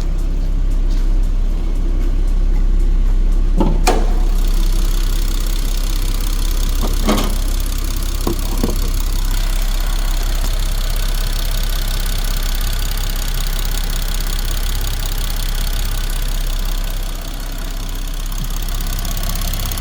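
Ford Mustang V6 idling with a fast, loud ticking from the fuel injector area after a swap to GT500 injectors; the owner is unsure whether the injectors are the cause. A few separate knocks are heard around the middle.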